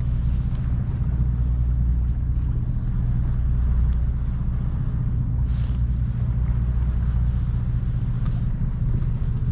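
A boat's engine running steadily at low revs, a constant low hum, with a brief hiss about halfway through.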